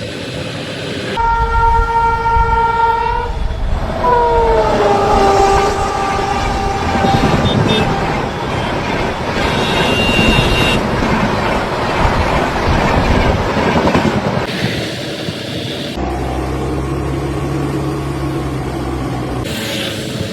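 A loud horn blast, then a second horn note sliding down in pitch, followed by a long, loud rumbling clatter that changes abruptly several times.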